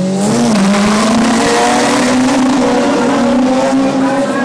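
Sedan drag car launching off the start line at full throttle: engine noise jumps suddenly loud at the start, the engine note rising briefly, then holding steady as the car pulls away down the strip.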